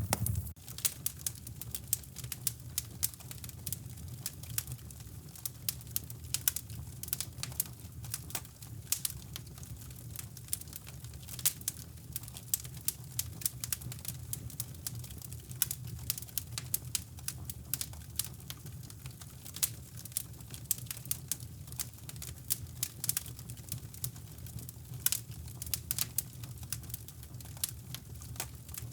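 Wood fire crackling in a fireplace, with irregular sharp pops and snaps, over a steady low rumble of brown noise.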